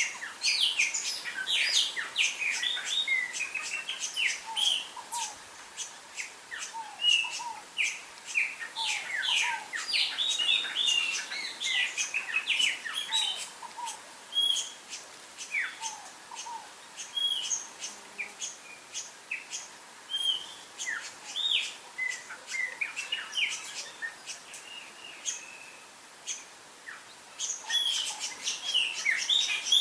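Many wild birds chirping at once: a dense chorus of short, high, mostly falling chirps. The chorus thins out somewhat past the middle and grows busy again near the end.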